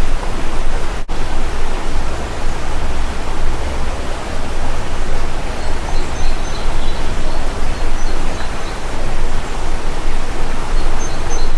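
Loud, steady rushing outdoor noise, strongest in the low end, with faint high bird chirps a few times in the second half. The sound drops out for an instant about a second in.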